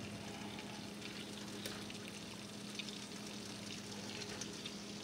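Melted butter and olive oil sizzling faintly in a pan as pieces of raw spicy Italian sausage are dropped in, with a few small crackles scattered through.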